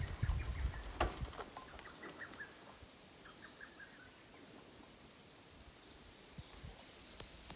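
Quiet outdoor ambience with a bird giving a short run of faint chirps about three seconds in, after some low rumble and a few knocks in the first second.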